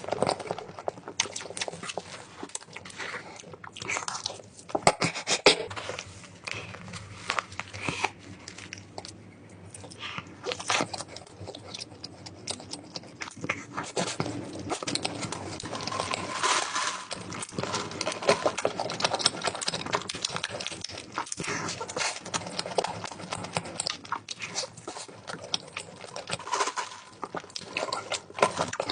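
A dog eating, crunching and chewing its food with many quick, irregular clicks and smacks.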